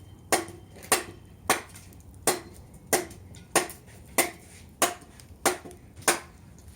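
Machete chopping a piece of firewood: about ten steady blows in a row, roughly one every two-thirds of a second, each a sharp knock. The blade is dull, so the blows knock on the wood rather than split it.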